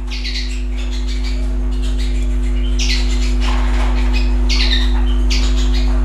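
Small cage birds giving short, high chirps, four of them spread across the few seconds, over a loud steady low electrical hum.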